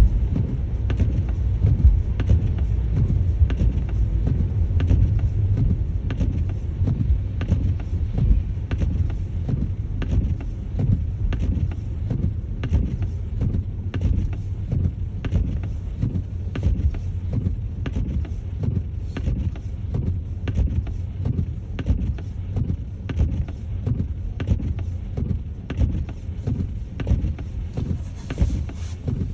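Car driving: a steady low rumble with many short knocks and buffets throughout.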